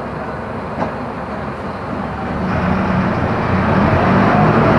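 Diesel engine of a Mercedes-Benz OF-1418 bus running under way, growing louder about halfway through as it pulls harder and the engine note comes up.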